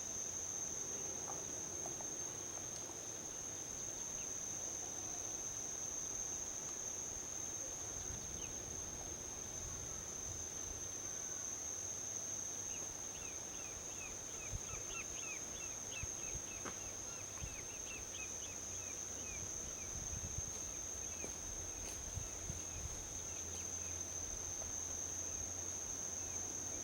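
Forest ambience of insects droning on one steady high note over a low, continuous rumble of distant highway traffic. A run of quick, rapid chirps comes in about halfway through.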